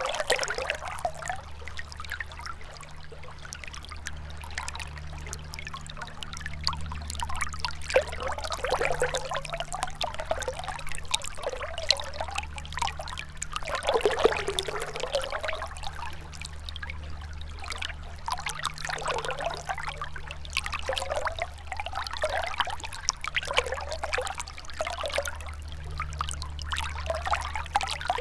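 Gentle river flowing, the water trickling and gurgling in irregular bubbling surges over a steady low rumble.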